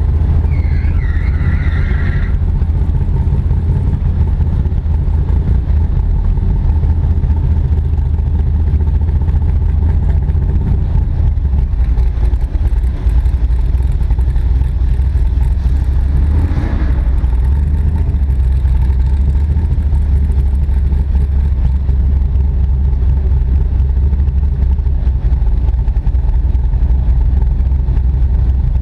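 AC Cobra's V8 engine idling steadily with a low rumble, heard from its open cockpit.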